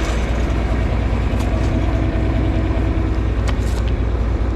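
John Deere 4020 tractor's six-cylinder engine running steadily, with a few light clicks in the second half.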